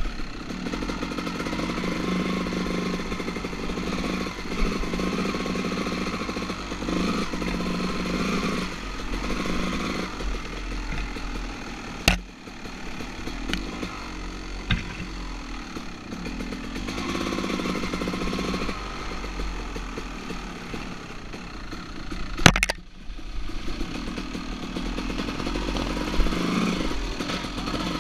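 Two-stroke dirt bike engine running and revving up and down at low speed. Two sharp knocks cut through it, one near the middle and one later.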